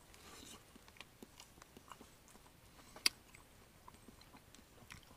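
A person chewing and eating close to the microphone: faint, scattered small clicks and mouth noises, with one sharper click about three seconds in.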